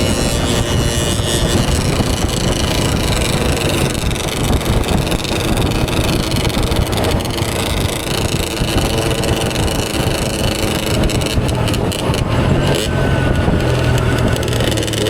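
Motorcycle engine running under way, with wind rushing over the microphone; the engine note rises a little after about twelve seconds.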